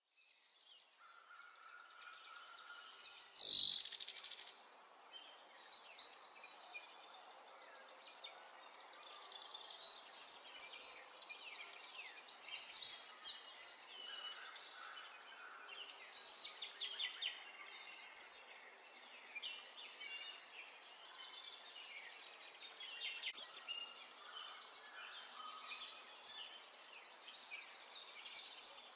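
Birds chirping in repeated bursts of high calls over a faint steady background hiss, with one sharper falling call a few seconds in.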